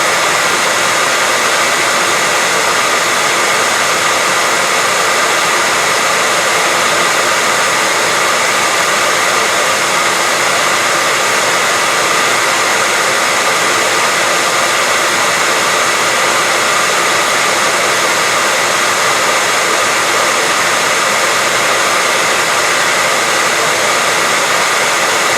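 Hair dryer running steadily, a loud, even whooshing of fan and air with a faint motor hum, unchanging throughout.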